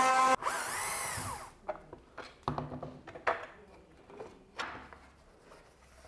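Palm router running at full speed, switched off about a third of a second in; it spins down over the next second. A few light clicks and knocks follow.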